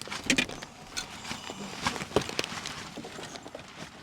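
Scattered knocks, clicks and rustling of things being handled and bumped inside a car as someone reaches behind them for a water bottle.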